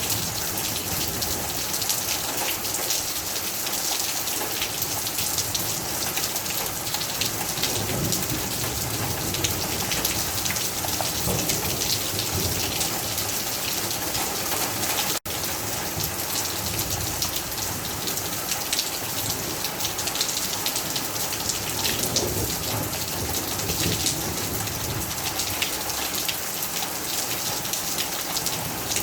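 Heavy rain falling steadily, a dense hiss full of fine drop splashes; it cuts out for an instant about halfway through.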